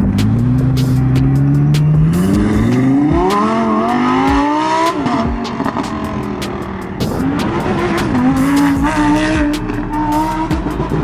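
A supercar engine accelerating hard, its pitch climbing steeply for a few seconds before dropping away, then another engine note rising near the middle. Sharp cracks run throughout.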